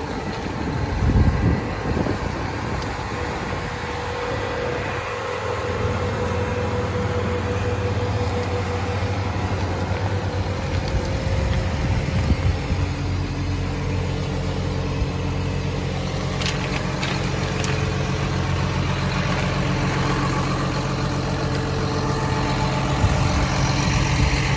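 John Deere 850K crawler dozer's diesel engine idling steadily. A few light clicks come about two-thirds of the way through.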